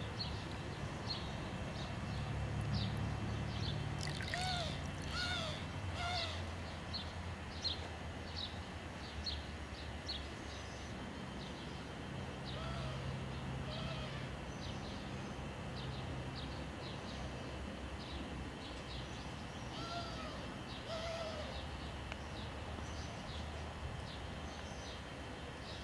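Outdoor birds calling: a run of short, high, falling chirps repeating throughout, with a few groups of two or three lower, arched calls, over a steady low hum.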